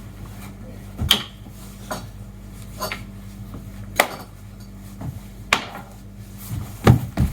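A series of sharp knocks and clatters from small hard objects striking, roughly one a second with two close together near the end, over a low steady hum.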